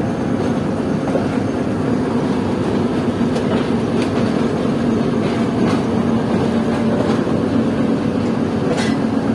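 Passenger train coach rolling over the rails at speed: a steady rumble with a low hum and a few faint clicks of the wheels over rail joints.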